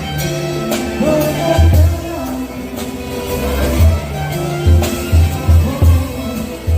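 A four-piece band playing Brazilian music: a walking bass line under repeated bass-drum hits and sharp percussion strikes, with a wavering melody line above.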